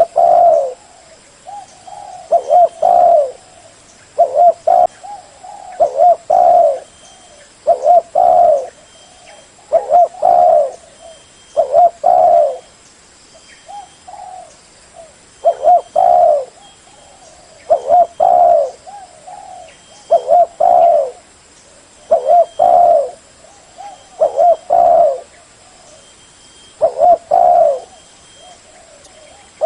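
Spotted dove cooing over and over, low phrases of a few notes each, coming about every two seconds.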